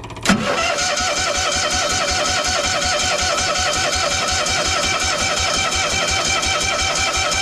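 Cushman's cold engine being cranked on its electric starter with the choke on, not yet catching. It begins with a sharp click about a third of a second in, then a steady rhythmic cranking with a whine that wavers evenly.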